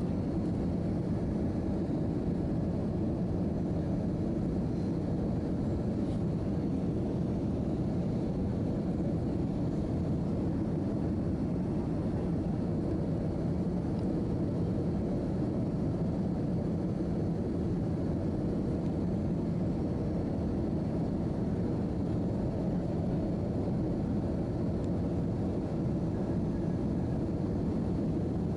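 Steady cabin noise inside an Airbus A319-111 airliner in flight, with its CFM56 engines and the airflow making an even low rumble. A faint steady hum sits on top.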